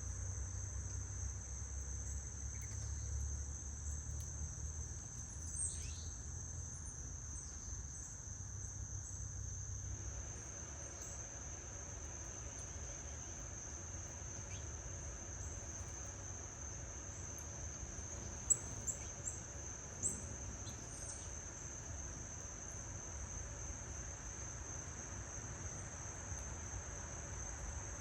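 Steady high-pitched insect chorus, typical of crickets, with a few brief high chirps about two-thirds of the way through. A low rumble underneath stops about a third of the way in.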